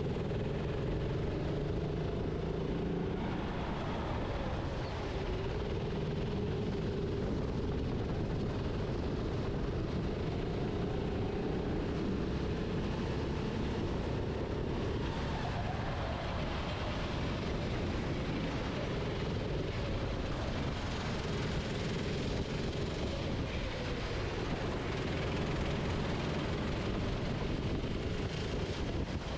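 Racing kart engine heard onboard at speed, its pitch rising and falling as the driver goes on and off the throttle through the corners, over a dense low rumble from the kart and the track.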